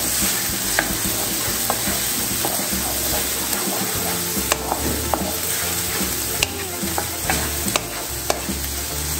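Green beans and egg sizzling in a frying pan over high heat, while a wooden spatula stirs them, scraping and tapping against the pan now and then.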